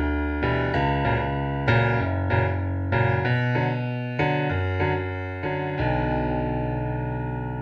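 Instrumental piano passage, a string of chords and notes. A last chord about six seconds in is left to ring and die away.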